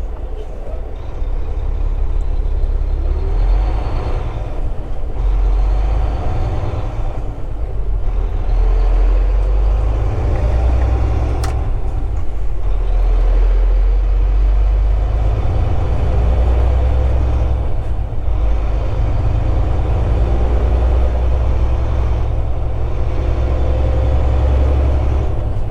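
Semi truck's diesel engine and road noise heard from inside the cab while driving: a deep, steady rumble that grows louder about eight seconds in, with one sharp click near the middle.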